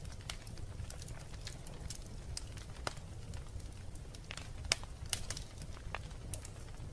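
Wood fire burning in a fireplace: irregular sharp crackles and pops over a steady low rumble, with the loudest pops a little before and just after the five-second mark.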